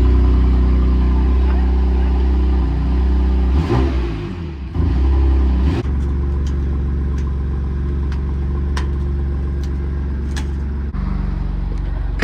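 BMW M4's twin-turbo inline-six idling through a newly fitted AWE Tuning SwitchPath exhaust, a steady low drone. The engine sound wavers and briefly swells about four to six seconds in, then settles back to a steady idle, with a few light clicks over it.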